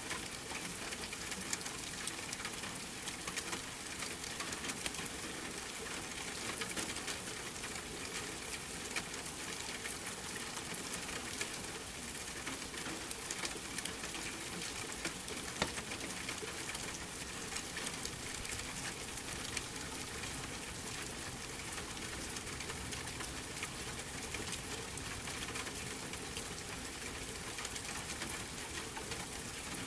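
Steady rain with a fireplace crackling: an even hiss scattered with many small sharp crackles and pops.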